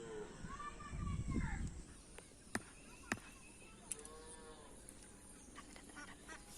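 Cattle mooing twice: a longer arching call at the start and a shorter one about four seconds in, with a few sharp clicks between them.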